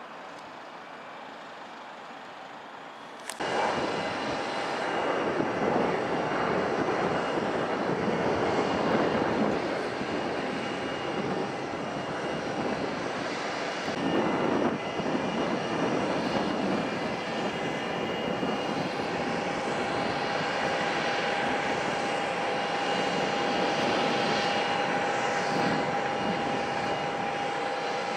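Airliner engines running loudly: a steady rush with a held whine, cutting in abruptly about three seconds in after quieter background noise.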